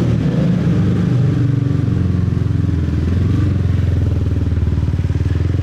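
Motorcycle engine running steadily under way, its low exhaust note with rapid firing pulses heard close up from the rider's own bike.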